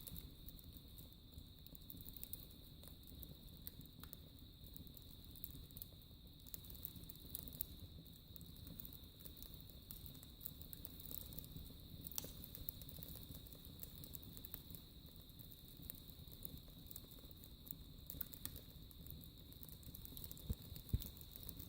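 Wood fire burning in a fireplace: faint scattered crackles and small pops over a low steady rustle, with one sharper pop near the end.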